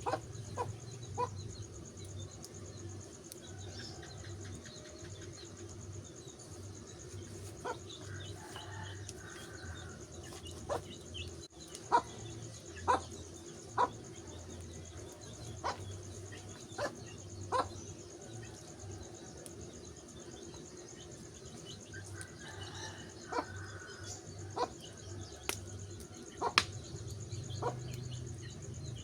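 Wood fire crackling with sharp, irregular pops, over a steady low hum and a steady high whine; a few faint bird calls come in now and then.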